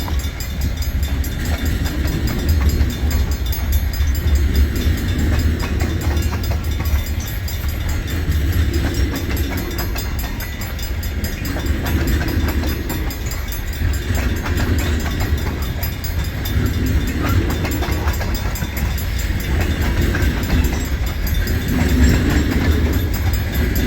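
Freight train cars rolling past with a steady rumble. A clack of wheels over the rail joints swells and fades about every two seconds.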